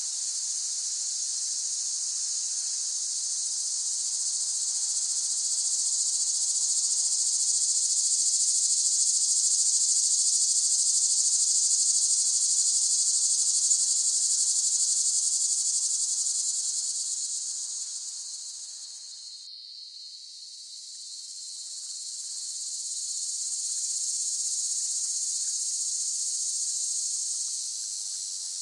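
Cicadas buzzing in a continuous high-pitched drone. It swells to a peak around the middle, fades to a brief low point about two-thirds of the way through, then builds again.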